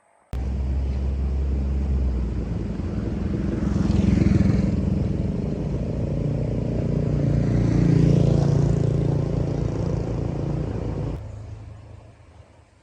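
Jeep engine running, its sound swelling twice, then cutting off sharply near the end.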